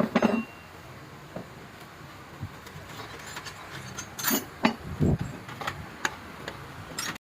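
Scattered clinks and knocks of hand tools and engine parts being handled during work on an Isuzu 6HK1 diesel engine. There is a loud cluster right at the start and another run of sharp knocks between about four and six seconds in, including one duller thud.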